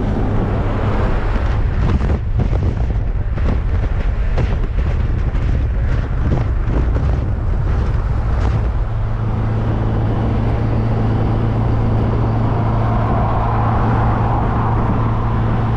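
1275cc MG Midget's four-cylinder engine running steadily at cruising speed, heard from the open cockpit with wind and road noise. For the first half there is heavy fluttering wind buffeting, which then settles into an even engine drone.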